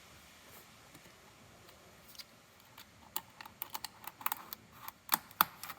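A string of light clicks and taps from small objects being handled by hand. It starts about two seconds in and gets busier, with the two loudest taps close together near the end.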